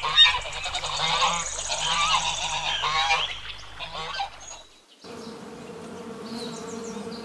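Geese honking and calling, several voices overlapping, cutting off about four and a half seconds in. From about five seconds a steady buzz of bees begins.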